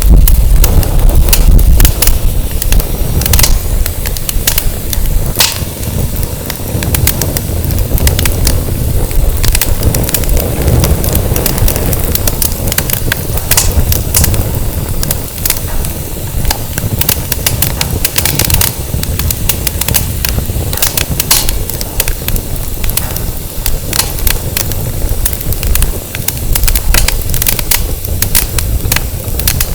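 Firewood burning in a fire pit, crackling with frequent sharp pops throughout, over a steady low rumble of wind on the microphone.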